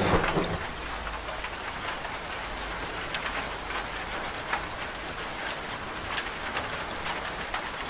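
Steady rain falling, with scattered individual drop ticks. A washing machine's low hum cuts out about half a second in, leaving only the rain.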